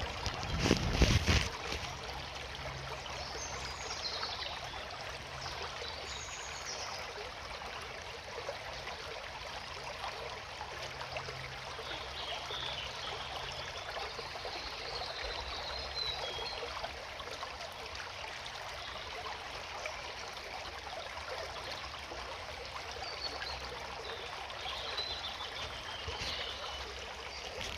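Small stream trickling and babbling steadily, with faint bird chirps now and then and a brief low thump about a second in.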